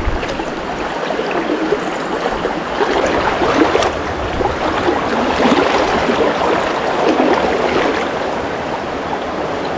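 Small mountain stream flowing: a steady rush of water with gurgling.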